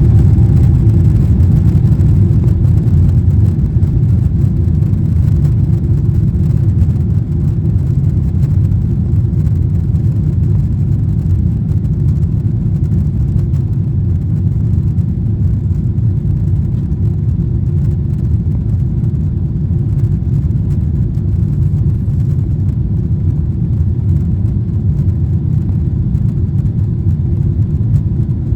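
Loud, steady low rumble of a Boeing 777-300ER's GE90 engines and airflow heard inside the passenger cabin, easing off slightly after the first few seconds.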